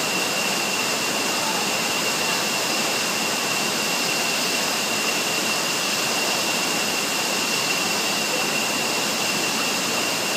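Waterfall: a steady, even rush of falling water, with a thin steady high-pitched whine above it.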